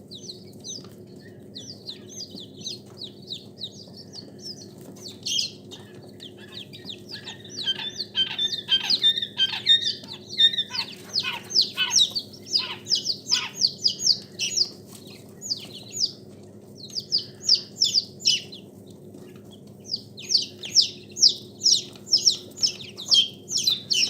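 Caged poultry chirping and peeping: many short, high, falling chirps, sparse at first, then a dense run of rapid peeps from several birds, over a steady low hum.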